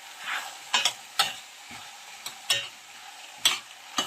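Chopped vegetables sizzling in a frying pan while a utensil stirs and scrapes them against the pan, about six sharp strokes over a steady hiss.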